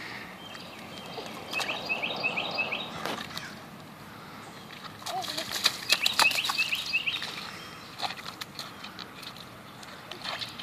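A songbird singing two phrases of quick, repeated high chirps, one about a second and a half in and another about six seconds in, with a few sharp clicks scattered between.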